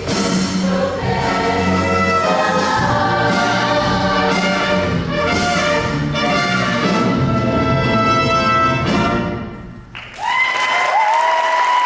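Show choir singing full-voiced over a live band with brass, breaking off sharply about nine and a half seconds in. Applause starts right after the cutoff.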